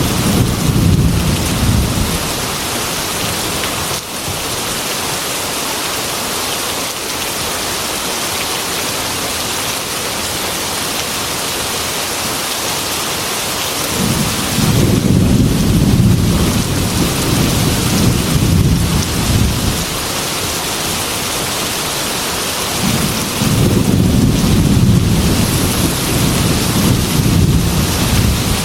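Heavy rain pattering steadily on window glass, with rolling thunder: a rumble dying away in the first two seconds, another lasting several seconds about halfway through, and a third near the end.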